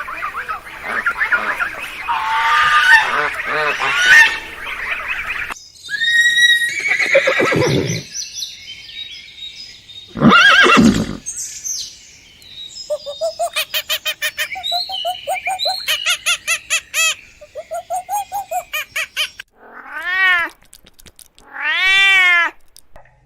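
A string of different animal calls, one after another with abrupt changes between them: a rapid run of repeated calls through the middle, then two long arching calls near the end.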